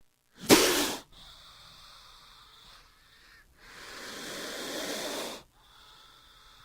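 King cobra hissing: a short, loud, sharp hiss about half a second in, then a longer breathy hiss that slowly swells and cuts off suddenly near the end.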